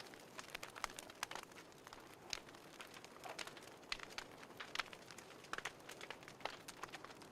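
Wood fire crackling in a fireplace: faint, irregular sharp pops and snaps over a soft hiss.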